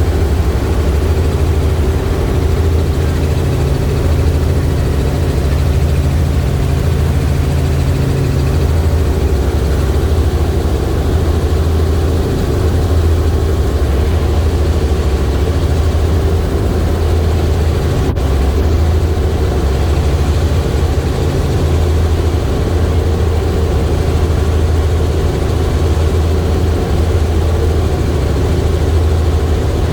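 Helicopter's engine and rotor running with a steady, loud, low drone.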